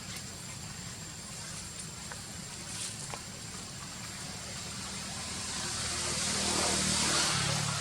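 A motor vehicle going past over a steady low hum, its noise swelling to a peak near the end.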